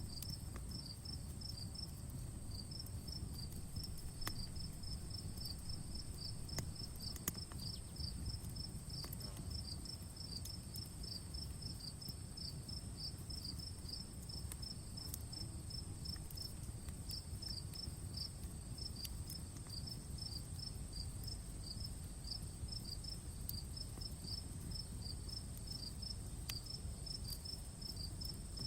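Crickets chirping in rapid, evenly repeated pulses over a steady high-pitched insect drone, with a few sharp crackling pops from a campfire, the loudest about seven seconds in, and a low steady rumble underneath.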